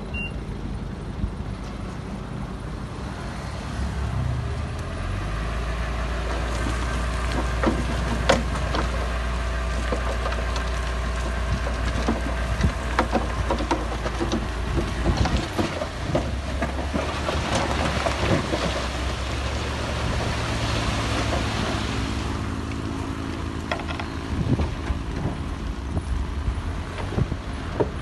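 Heavy diesel earthmoving machinery working: a big engine running steadily under load, its note strengthening about five seconds in, with frequent clanks and rattles of steel and rock.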